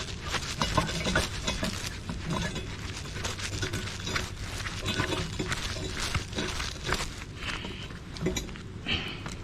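Metal hand tools and suspension parts clinking and clattering in irregular short knocks while stabilizer links are worked on under the car.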